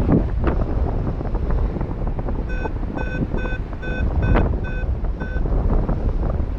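Strong wind buffeting the microphone of an airborne paraglider. From about two and a half seconds in, a paragliding variometer beeps rapidly, about four short high beeps a second for roughly three seconds, the sign that the wing is climbing in lift.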